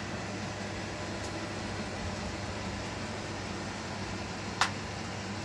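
Steady low mechanical hum, with one sharp click a little over four and a half seconds in.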